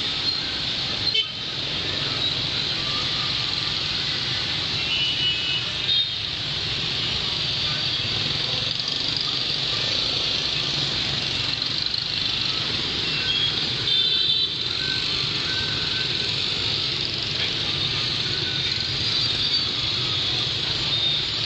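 Dense motorbike traffic: a steady mass of small engines running, with short horn toots now and then.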